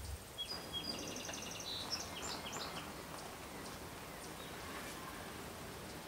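Faint background ambience with a bird chirping a quick run of high notes from about half a second to three seconds in.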